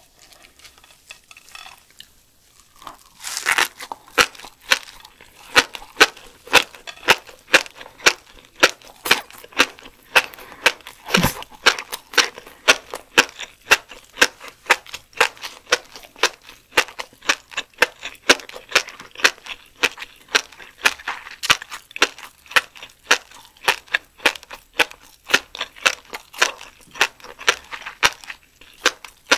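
Close-miked chewing of a mouthful of steamed lumpsucker roe: a long, even run of sharp clicking chews, about three every two seconds, starting about three seconds in.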